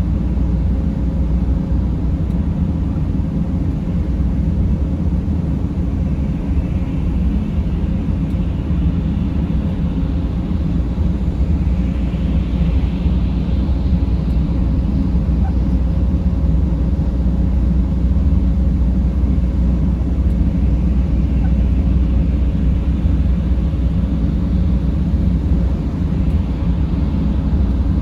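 Mercedes Sprinter van driving, a steady low rumble of engine and road noise with a faint constant hum; a faint hiss swells briefly about twelve seconds in.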